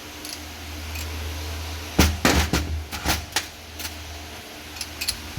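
Handling noise from a removed starter motor: a quick run of sharp metallic clanks and knocks, about seven in two seconds, starting about two seconds in, over a steady low hum.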